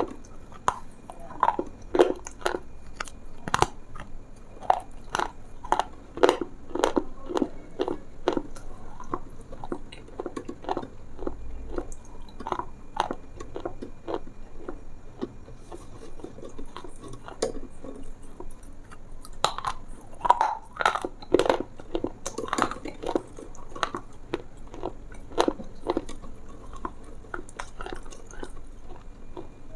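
Close-miked chewing and crunching, a steady run of crisp, irregular bites and crunches.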